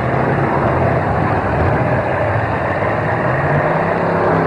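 Several demolition derby cars' engines running and revving together in a loud, continuous din, with a few rising revs near the end.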